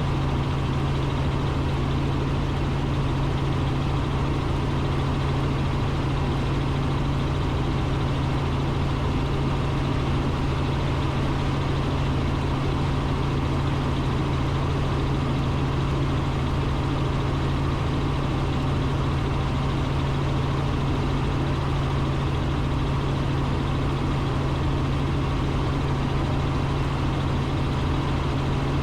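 Robinson R44 Raven II helicopter in cruise flight, heard from inside the cockpit. Its rotors and six-cylinder Lycoming piston engine make a steady, unchanging drone with a strong low hum.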